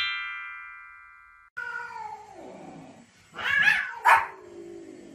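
A short chime jingle rings and fades. About a second and a half in, a long falling cry begins, then two loud, sharp barks from a small white spitz-type dog near the end.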